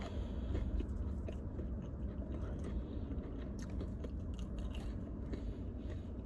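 A person chewing and biting food close to the microphone, with scattered soft crunches and mouth clicks over a low steady rumble.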